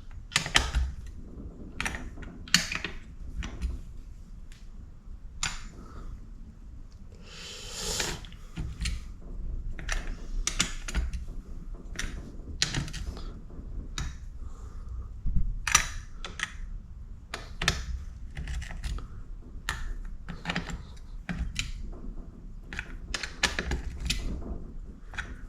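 Torque wrench on the water pump cover bolts of a Honda CR125 two-stroke engine: irregular clicks and short ratcheting as the bolts are snugged down to about half torque, with a longer rasp about eight seconds in.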